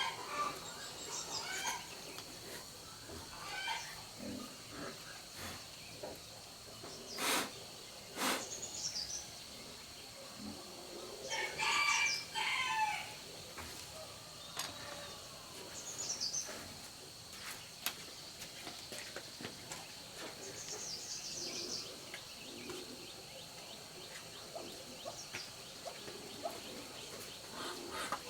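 Chickens calling, with a rooster crowing about twelve seconds in; two sharp knocks come a few seconds before the crow.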